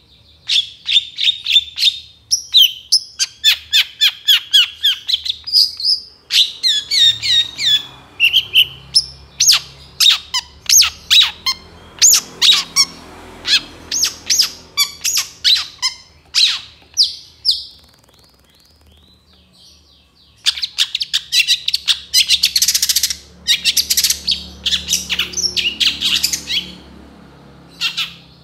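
Long-tailed shrike (cendet) singing loudly: a fast run of sharp, harsh notes and chattering phrases with mimicked calls of other birds woven in. A quieter pause of about two seconds past the middle, then dense, harsh chatter resumes.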